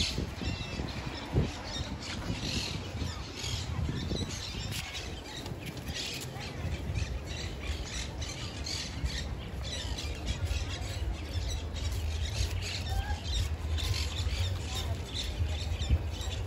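Birds squawking with many short, repeated calls over a steady low rumble.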